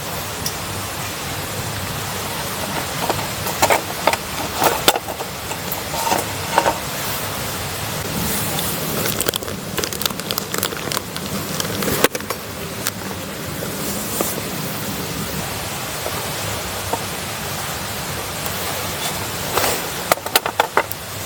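Wood campfire crackling, with scattered sharp pops in clusters a few seconds in, around the middle and near the end, over a steady rushing noise.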